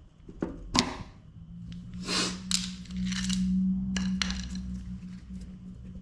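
Sharp metallic clicks of hand tools working at the welder's knob, then a steady low hum starting about a second in, with short scraping noises over it.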